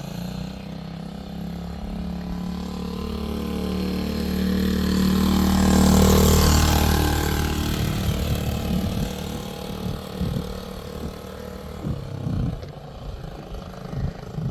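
Small motorcycle engine running steadily at low speed, growing louder as the bike approaches, passing close about six seconds in, then fading as it rides away.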